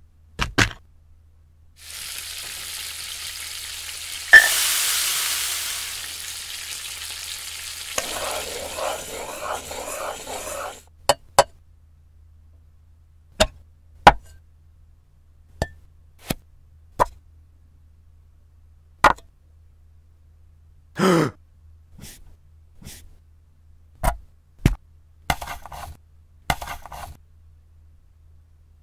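Cooking sounds: a sizzling hiss lasting about nine seconds, louder after a sharp click near the start, then a scattered series of short sharp clicks and knocks with a few brief scraping bursts.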